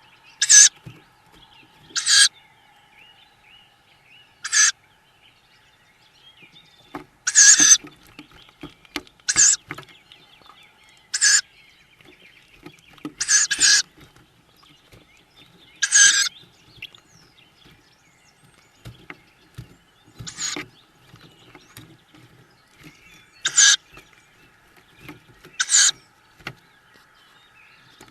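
Tawny owl nestlings giving short, loud, hissing begging calls, about eleven in a row, each coming two or three seconds after the last, with soft bumps of the chicks shifting in the nest box between them.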